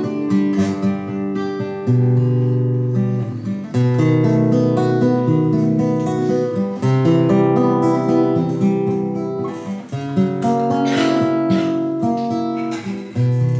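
Acoustic guitar playing a song's introduction: strummed and plucked chords that change every second or two, with no singing.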